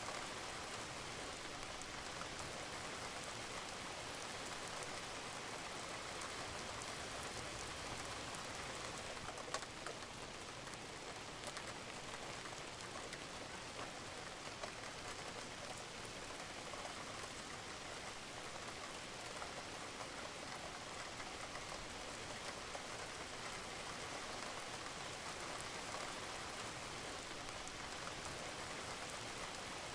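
Steady rain falling on a roof, an even hiss with scattered drops tapping, one a little louder about ten seconds in.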